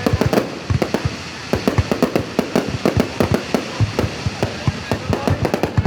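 Fireworks going off in a rapid, irregular barrage of sharp bangs, several a second.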